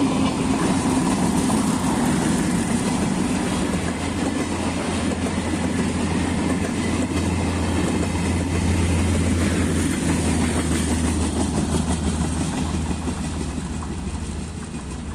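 Passenger train of LHB coaches running through a station at speed: a steady rumble of wheels on the rails with a low hum underneath, fading over the last couple of seconds as the last coach moves away.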